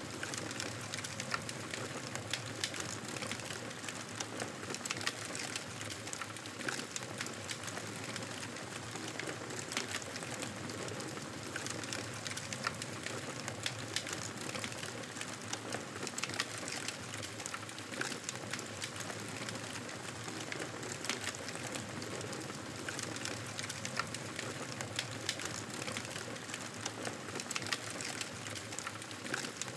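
Campfire burning with a steady hiss and frequent sharp, irregular crackles and pops from the burning wood.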